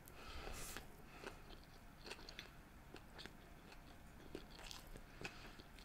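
Faint chewing of a mouthful of sushi, with scattered soft clicks of the mouth.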